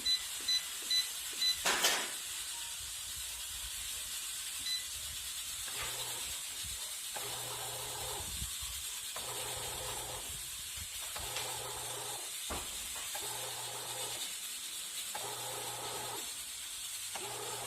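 Bread machine's panel beeping several times as the dough program is set, then a click. From about six seconds in its kneading motor hums in stop-start bursts of about a second each, working the paddle through the fresh dough.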